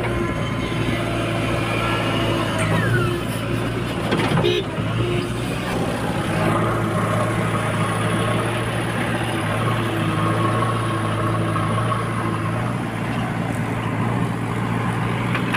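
Heavy diesel machinery engine running steadily at an even speed, with a brief knock about four and a half seconds in.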